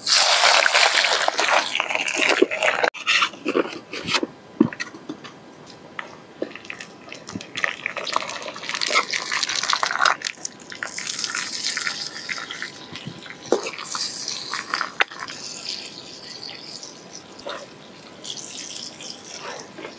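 Chopped onion dropped into hot oil and cumin seeds in a kadhai, hissing loudly at once and then sizzling on and off as the vegetables are stirred in, with a few knocks of the spoon against the pan.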